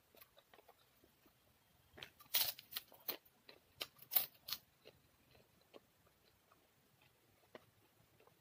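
A person eating with their fingers close to the microphone: a run of sharp crunches and chewing clicks between about two and five seconds in, with fainter mouth and finger clicks before and after.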